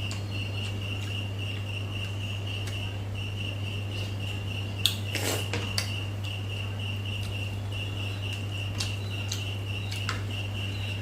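A person eating a meal: scattered small clicks and taps against the dishes, with a louder cluster of clicks and a short rustle about five seconds in. Under it run a steady high-pitched trill, like an insect, and a low steady hum.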